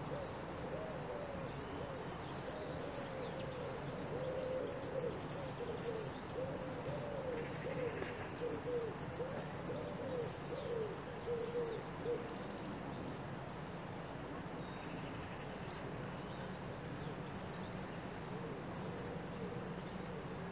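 Outdoor birdsong: one bird gives a quick string of low, short rising-and-falling call notes for the first twelve seconds or so, while other birds chirp faintly and high.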